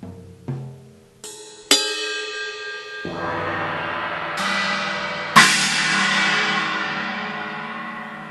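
Electronic drum kit playing sampled acoustic drum and cymbal sounds through a 2Box module. A couple of low tom hits are followed by a string of cymbal crashes, the loudest about five seconds in, left to ring out and slowly fade.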